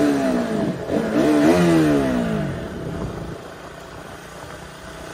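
KTM Duke 200's single-cylinder engine being ridden: it revs up at the start and again about a second in, then its pitch falls away as the throttle closes. It runs quieter and steady for the second half.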